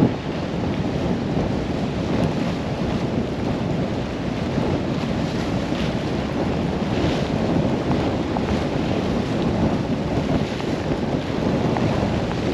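Strong storm wind buffeting the microphone in a steady, gusting rush.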